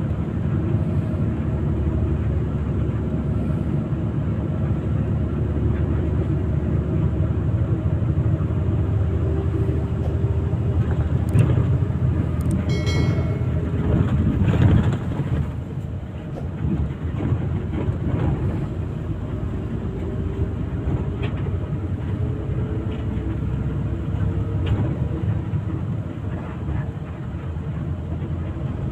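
Murni Jaya intercity bus on the move: a steady low rumble of engine and road noise, swelling louder about halfway through. A brief high-pitched tone sounds just before the swell.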